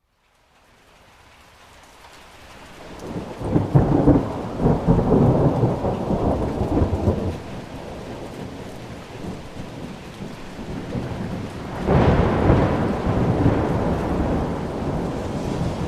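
Thunderstorm: rain fading up from near silence, with a long roll of thunder peaking about four seconds in and a second, more sudden clap of thunder about twelve seconds in that rumbles away under the rain.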